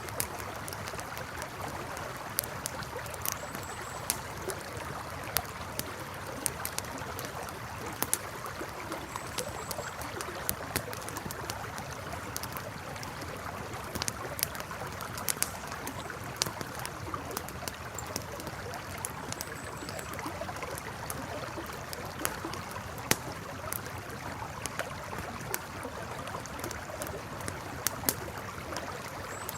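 Campfire crackling, with sharp irregular pops, over the steady rush of a flowing river. A few faint high chirps sound now and then.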